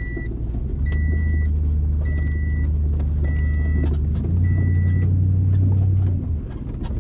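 Truck engine drone heard inside the cab, with an electronic warning beep sounding five times, about once a second, stopping about five seconds in. The engine drone steps up about four seconds in and eases near the end.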